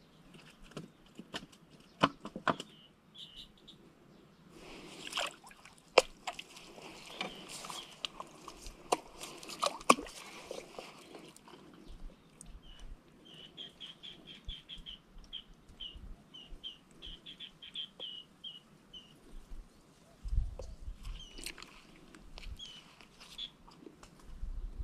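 A bird gives a quick run of short, high chirps in the middle, among scattered sharp clicks and knocks and a stretch of rustling. Low rumbling thumps come near the end.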